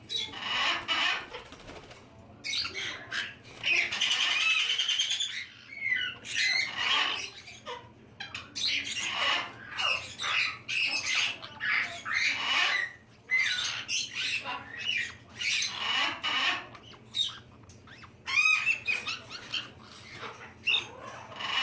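Caique parrots squawking and chattering in many short, irregular, high-pitched calls.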